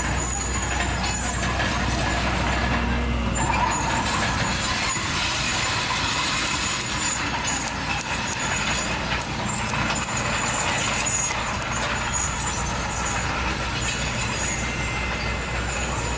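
Komatsu D31PX bulldozer working, its diesel engine running steadily. The low drone eases for several seconds in the middle and then comes back.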